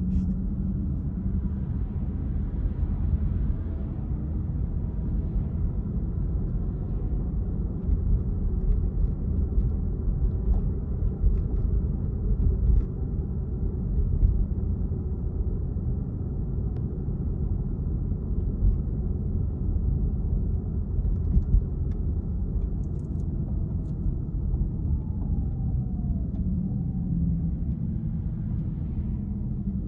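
Car driving: steady low rumble of engine and tyres on the road.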